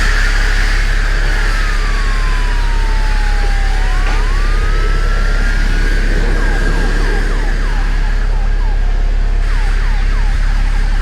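Emergency vehicle siren: a slow wail that rises, falls and rises again, then switches about six seconds in to quick, repeated falling yelps. Underneath is a loud, steady low hum.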